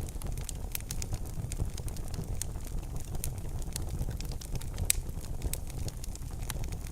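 Wood fire burning in a fireplace: a steady low rumble of the flames with frequent irregular crackles and pops, one sharper pop about five seconds in.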